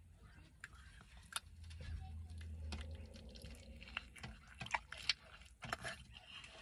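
Close-up chewing and mouth sounds of someone eating a burrito: wet smacks and clicks, coming thickest in the second half.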